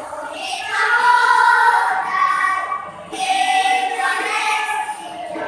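School choir of young voices singing in unison, two long held phrases with a short break between them.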